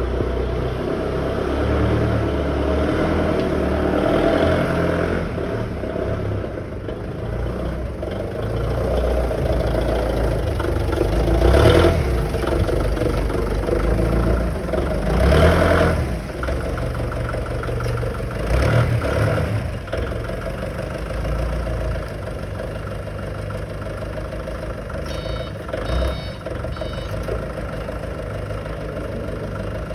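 A vehicle engine running and revving at times, with a couple of sharp knocks about a third and half of the way through, and a short series of warning beeps near the end.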